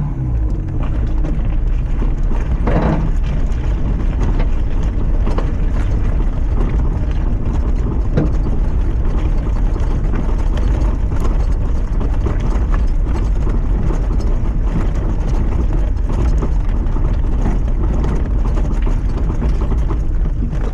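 Lifted Mazda MX-5's four-cylinder engine running under load as the car drives over a rough trial track, heard from inside the car, with a heavy steady rumble and frequent knocks and rattles from the ground.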